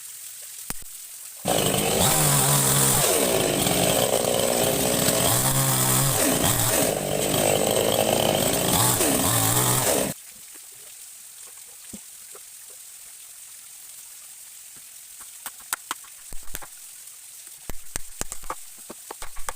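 Chainsaw running loud for about nine seconds, its engine pitch rising and falling as it cuts, then stopping suddenly. Afterwards a stream runs steadily, with a few sharp clicks and knocks near the end.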